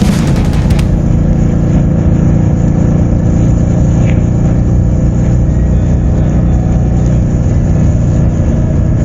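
Motorcycle running at road speed: a loud, steady low rumble of engine and wind noise. A music track cuts out about a second in.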